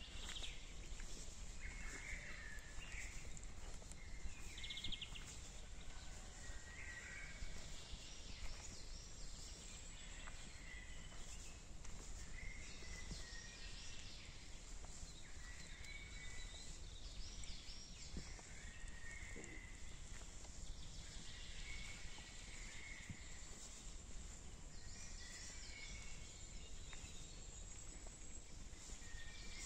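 Forest birds calling and singing in short, repeated phrases, one after another, over a faint steady low rumble.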